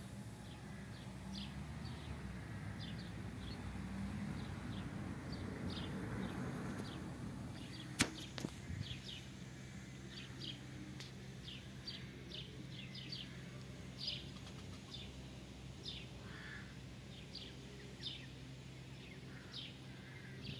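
Faint outdoor ambience of small birds giving short, high chirps again and again, over a steady low hum and a soft rushing noise in the first half. A single sharp click comes about 8 seconds in.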